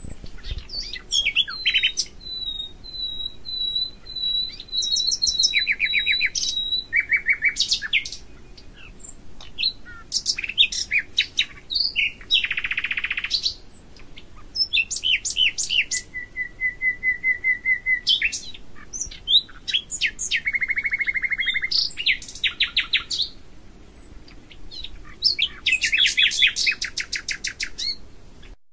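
Birdsong: a long series of varied phrases, with rapid trills, runs of repeated notes held on one pitch and buzzy rattles, broken by short pauses.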